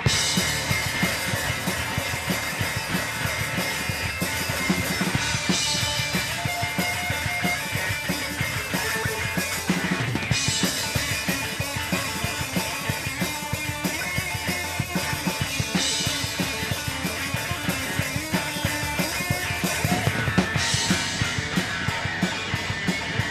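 Rock band playing live without vocals: guitar and drum kit, with a cymbal crash about every five seconds.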